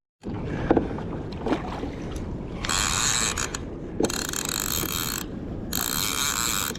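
Fishing reel's drag ratchet buzzing as a hooked fish pulls line off, in two runs: one of about two and a half seconds, then another after a short break. Under it is a low rush of wind and water with a few knocks.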